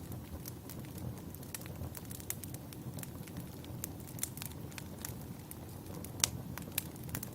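Wood fire burning: a steady low rumble of flames with frequent sharp crackles and pops of firewood. The loudest pop comes a little over six seconds in.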